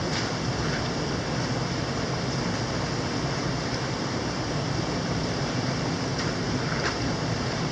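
Mountain stream rushing steadily, with a couple of faint clicks, near the start and near the end.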